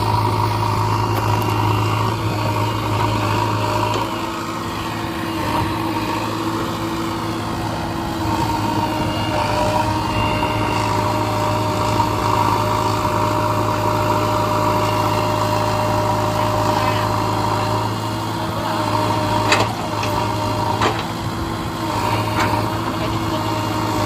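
Massey Ferguson 241 DI tractor's diesel engine running steadily while hauling a mud-loaded trolley uphill, with two sharp knocks near the end.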